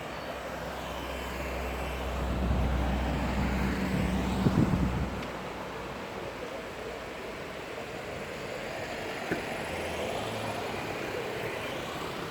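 A motor vehicle's engine passing close by: a low hum that builds over the first few seconds, is loudest about four and a half seconds in, and fades away by about six seconds, over steady outdoor background noise.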